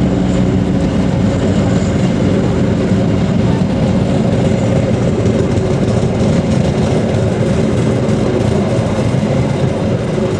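Passenger train coaches running past on the rails, a loud, steady rolling noise of wheels on track with a low drone underneath.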